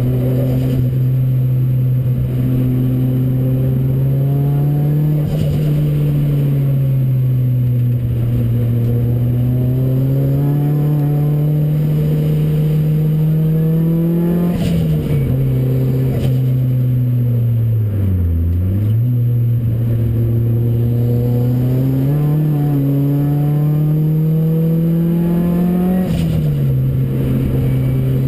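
Ford Racing Puma's modified Focus RS engine driving on track. The note climbs steadily and then drops sharply at each gear change, roughly every four to eight seconds. About two-thirds of the way through, the revs fall low before building again.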